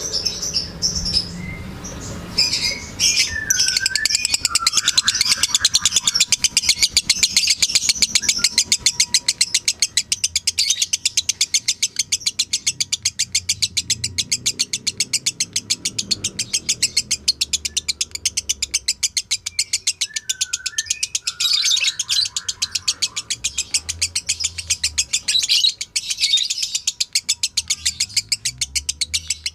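Lovebird singing a long, fast 'ngekek' chatter: a high, evenly repeated run of many notes a second that goes on almost without a break. A few shorter, lower call phrases come in near the start and again about two-thirds of the way through.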